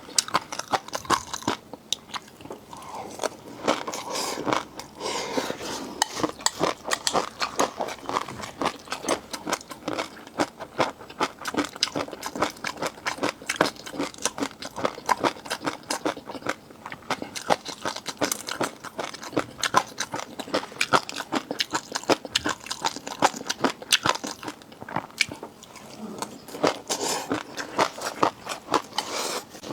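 Close-miked eating of seafood: steady crunchy biting and wet chewing, a dense run of sharp crackles and clicks that keeps going without pause.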